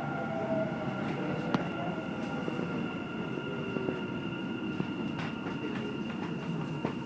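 Dubai Metro train running, heard from inside the carriage: a steady rumble with two constant high whines, a fainter tone that slowly falls in pitch, and a few sharp clicks.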